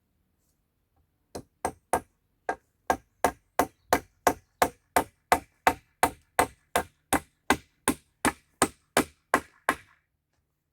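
A hand tool striking wood in a steady series of about two dozen sharp blows, roughly three a second, starting about a second and a half in and stopping shortly before the end.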